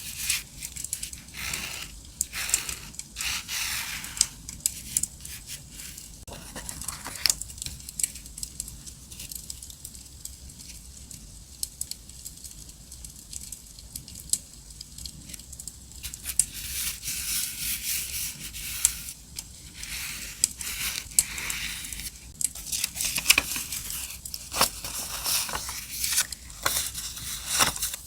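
Paper being rustled and torn in bursts, over scattered crackling from a campfire.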